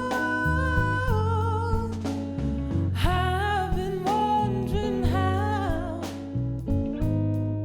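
Soul song: a woman's voice singing long, wavering held notes over a backing of bass and guitar.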